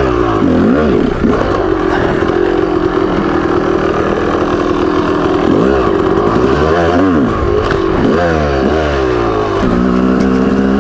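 Yamaha YZ250 two-stroke dirt bike engine running under riding load. It holds a steady high pitch for a few seconds, then revs up and drops back several times in quick swells.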